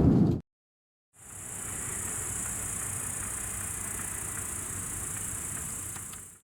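Loud rumbling thunder with rain cuts off abruptly at the start. After about a second of silence, a steady, high-pitched insect chorus plays for about five seconds and then stops abruptly.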